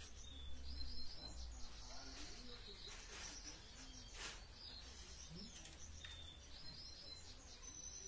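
Small birds chirping faintly in short, repeated high notes, in several brief clusters, over a steady low hum.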